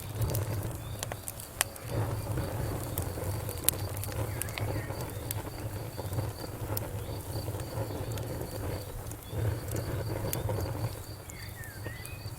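Wood fire crackling, with frequent sharp pops over a low steady rumble of the flames. A cricket chirps in a steady pulsing rhythm behind it.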